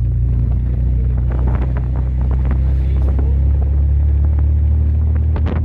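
1938 SS Jaguar 3½ Litre's straight-six engine running at a steady speed, a constant low drone.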